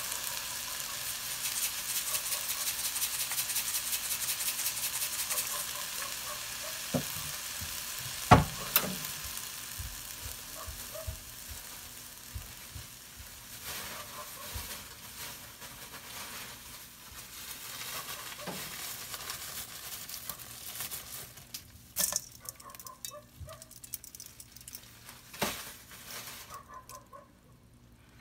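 Mung bean sprouts sizzling in a wok fried without oil, in only a little bubbling liquid. The hiss is strongest over the first six seconds and then dies down, with a few sharp knocks against the pan, the loudest about eight seconds in.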